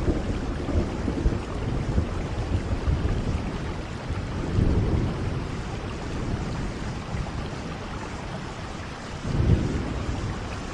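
Steady rain with low rumbles of thunder swelling about halfway through and again near the end.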